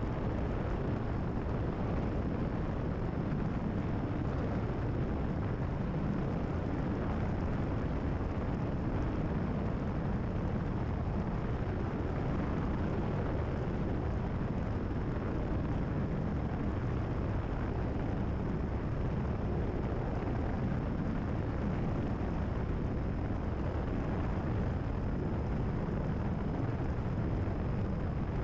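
Cessna 172RG's piston engine and propeller at cruise power, a steady drone heard inside the cabin.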